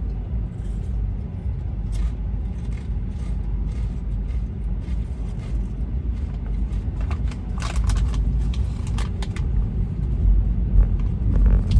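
Road noise inside a moving car's cabin: a steady low rumble from the tyres and engine, growing louder near the end, with a few short clicks in the middle.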